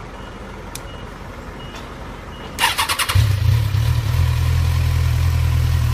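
Kawasaki Ninja 1000's inline-four engine, fitted with a Nojima DLC titanium exhaust, cranked briefly by the starter and catching about three seconds in, then idling steadily through the exhaust. A few faint clicks come before it starts.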